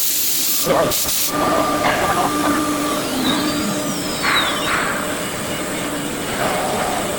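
A 5-axis CNC machine running: a steady mechanical drone with two short, loud bursts of hiss near the start and a whine sliding down in pitch around the middle.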